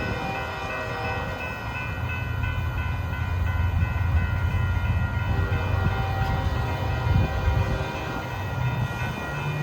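Union Pacific freight train rolling by with a steady low rumble. Several thin, high, ringing tones hold steady over it.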